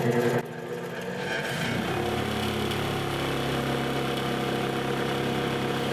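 Brass wire wheel's electric motor running with a steady hum. It changes about half a second in, then settles into an even tone that holds.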